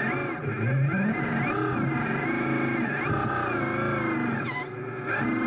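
Electric drive motors and gearing of radio-controlled construction models whining, the pitch rising and falling over and over as the throttle is worked.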